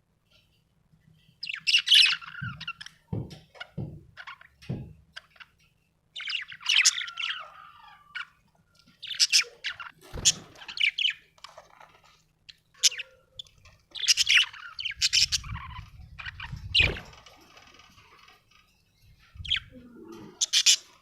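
Budgerigar chirping and warbling in short bursts of high chirps and squawks, separated by pauses of a second or two. A few soft low thuds come between the bursts.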